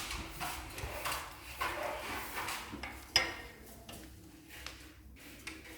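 Wood fire burning in a sauna stove-fireplace's firebox with the draught lever lowered: irregular crackles and puffs of flame that grow quieter over a few seconds, with one sharp crack about three seconds in.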